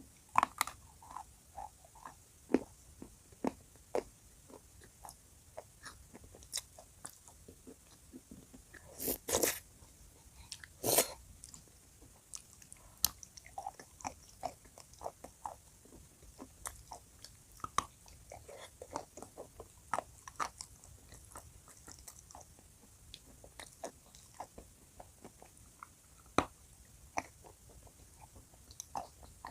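Dry chalk coated in blue clay paste being bitten and chewed close to the microphone, with sharp crunching crackles throughout and two longer, louder crunches about nine and eleven seconds in.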